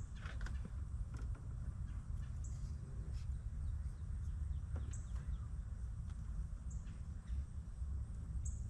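Faint clicks and rustling of small wiring connectors being handled, over a steady low rumble, with a short high chirp about every two seconds.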